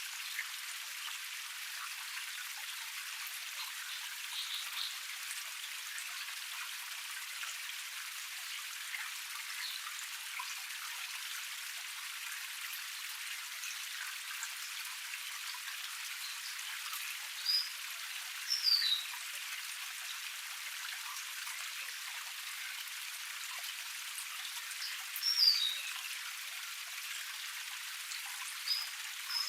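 Small forest waterfall cascade: water flowing steadily, an even splashing hiss with no low rumble. A few short, quick, falling bird chirps break in past the middle and again near the end.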